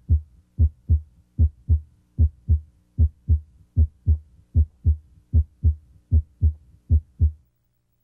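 Heart sounds heard through a stethoscope at the mitral area (cardiac apex): a steady lub-dub, two thumps per beat about a third of a second apart, repeating about every 0.8 seconds, roughly 75 beats a minute. The first sound (S1, from mitral valve closure) is usually the louder one at this spot. The beats stop about seven and a half seconds in.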